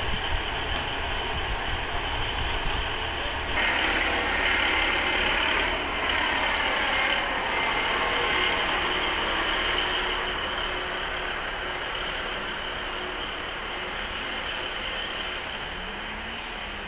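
Transport for Wales diesel multiple-unit train pulling out of the platform and moving away, its engine and wheels making a steady mechanical noise. The sound shifts abruptly about four and ten seconds in.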